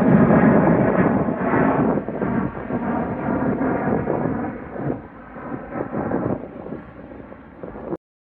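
Airliner engine noise, a loud rumble at first that fades steadily as the plane moves away, then cuts off abruptly near the end.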